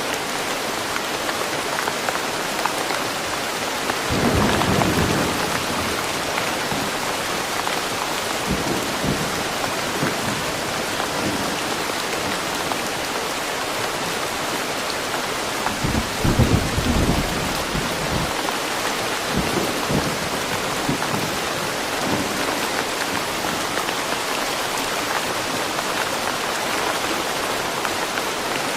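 Steady heavy rain, with low thunder rumbling twice: about four seconds in and again around sixteen seconds in, plus a few fainter rumbles.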